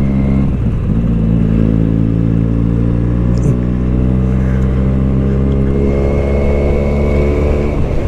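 Benelli motorcycle engine with an aftermarket Ixil exhaust, running steadily under way. The engine note dips briefly about half a second in and again near the end.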